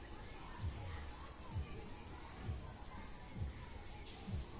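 A bird's high, thin whistled call, held briefly and then dropping in pitch at the end, repeated three times about two and a half seconds apart. Under it come low dull thumps about once a second.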